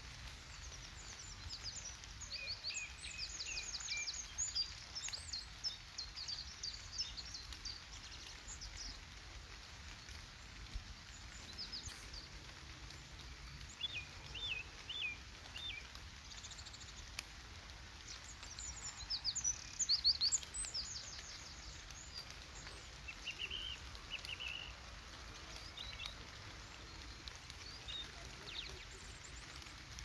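Small songbirds calling in short high chirps and rapid trills, busiest in the first several seconds and again about two-thirds of the way through, over a steady low rumble of background noise.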